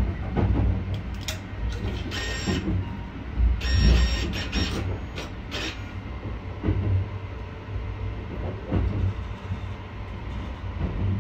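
Steady low rumble of the moving sleeper train. Around two to six seconds in come a few short whirring, clicking bursts, plausibly the shower room's card reader drawing in the shower card.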